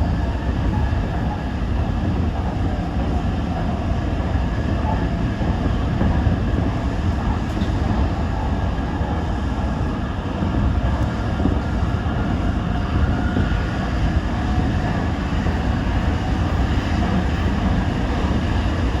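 Toyo Rapid Railway 2000 series electric train running between stations: a steady rumble of wheels on rail and running gear, heard from inside the car.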